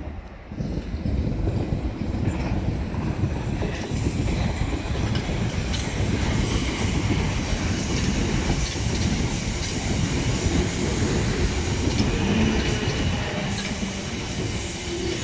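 South Western Railway Class 455 electric train running past close alongside the platform, the rumble of its wheels on the rails rising about half a second in and then holding steady.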